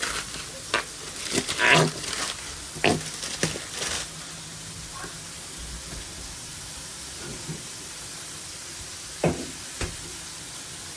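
Food sizzling on a griddle. During the first four seconds the sizzle is overlaid by clattering knocks and scrapes of cooking tools, and two more sharp knocks come near the end.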